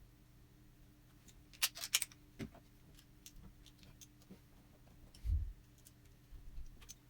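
Small sharp clicks and taps from handling the parts of an old oil lamp: a quick cluster of several clicks about two seconds in, scattered single clicks after, and one soft low thump about five seconds in.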